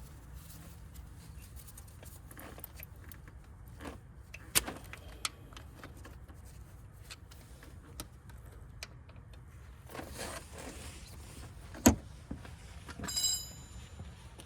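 A few sharp clicks and knocks, the loudest about a third of the way in and again near the end, over a low steady hum, with a brief squeak just after the last knock.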